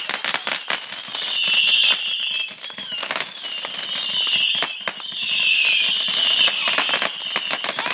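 Fireworks going off: dense, rapid crackling with a high hiss that comes and goes several times, each spell lasting about a second.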